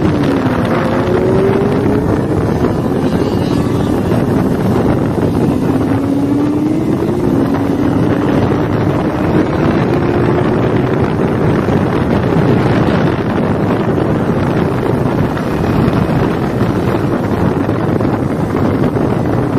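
Kawasaki Ninja 400's parallel-twin engine heard from the rider's seat under heavy wind noise on the microphone. The engine pitch drops near the start, then climbs steadily for several seconds through the middle as the bike accelerates.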